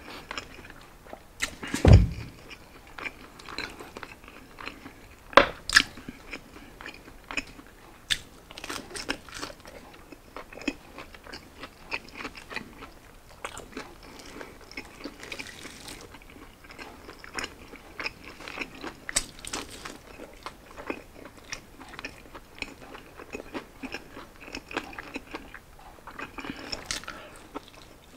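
Close-up eating sounds: crispy roasted pork belly being bitten and chewed, with many small crunches and wet chewing clicks. Two much louder sharp knocks or snaps stand out, about two seconds in and again just before six seconds.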